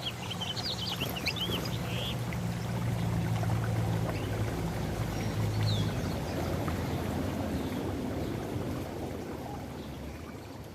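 Small birds giving a quick run of high, rising chirps in the first second or so, with one more brief note near the middle, over a steady low hum and a rushing noise that swells and then fades away toward the end.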